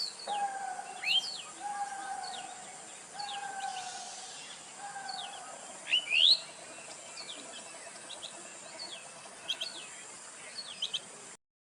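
Several birds calling in open forest: a slightly falling call of about a second repeated four times, and many short rising chirps, the loudest pair about six seconds in, over a steady high hiss. The sound cuts off suddenly near the end.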